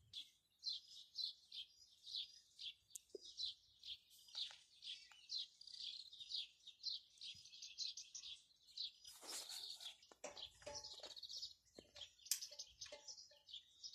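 Small birds chirping: quick, high-pitched chirps, several a second and repeating throughout, with a louder, fuller call about nine seconds in.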